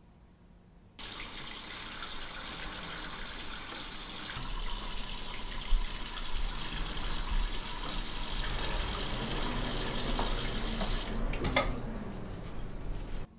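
Kitchen faucet running into a stainless-steel sink of dishes. The water comes on suddenly about a second in, runs steadily, and cuts off suddenly near the end, with a few sharp ticks shortly before it stops.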